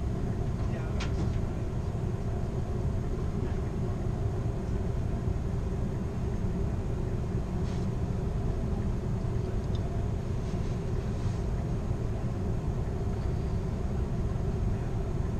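Steady low rumble of a moving passenger train heard from inside its rear car: wheels rolling on the rails and the car body running, with a few faint ticks.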